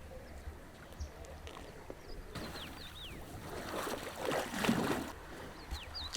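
Small birds calling with short, quickly falling whistled chirps, a few times over. About four seconds in, a brief swell of rustling noise rises and fades and is the loudest sound, over a steady low rumble.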